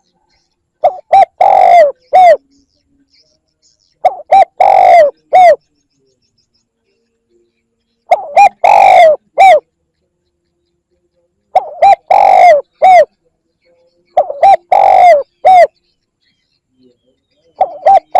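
Spotted dove cooing its song: a few short coos run into a longer drawn-out coo and end on a final short note. The phrase repeats about every three to four seconds, six times.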